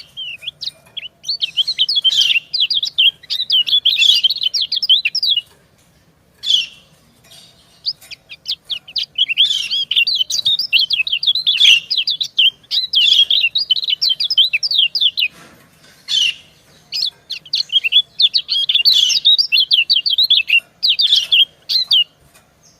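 Yellow white-eye (kecial kuning) giving long runs of rapid, high 'ciak' chirps, the female's call to a male, in three bouts with short pauses between.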